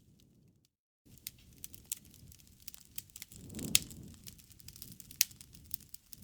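Campfire crackling: scattered sharp pops over a soft low rush of the flames, with the loudest pop a little past halfway and another strong one about five seconds in. The sound cuts out completely for a moment just before one second in.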